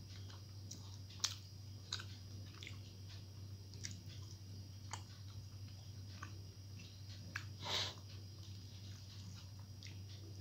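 Close-up mouth sounds of a person chewing mouthfuls of rice and fried vegetables eaten by hand: soft wet clicks and smacks scattered throughout, with one louder short hiss about three quarters through. A steady low hum lies underneath.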